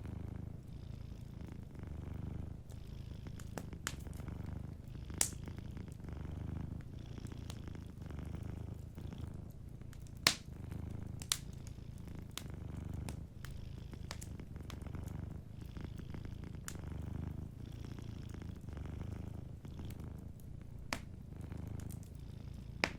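Domestic cat purring steadily, a low rumble swelling and easing with each breath, while a wood fire gives off a few sharp crackling pops, the loudest about five and ten seconds in.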